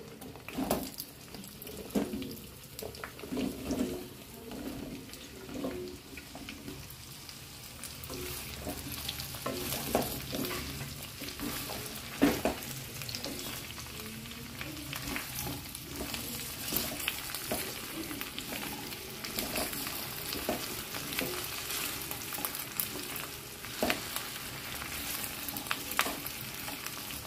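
Cut okra (lady finger) frying in hot oil in a non-stick kadai: a sizzle that grows louder after the first few seconds. The wooden spatula knocks and scrapes against the pan as the pieces are stirred, with the loudest knock about twelve seconds in.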